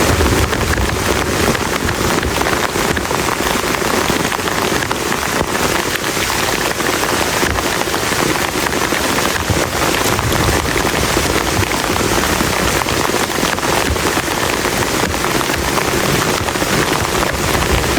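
Heavy rain falling steadily on a plastic tarp, a dense, even patter of many drops.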